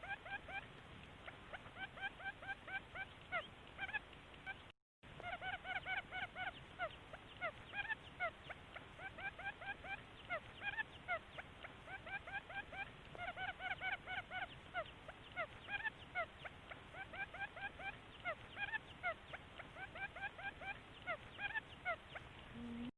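Quail (Thai nok khum) calling in a recorded lure call: a fast, continuous run of short rising chirps, as from several birds at once. The calls break off for a split second about five seconds in.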